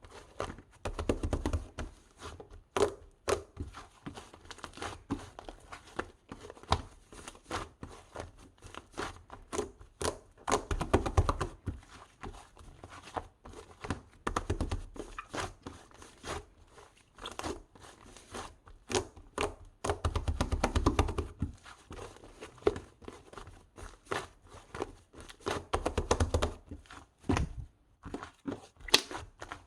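Close, irregular knocks, taps and rustling or crinkling, with a few heavier thumps, in a small room.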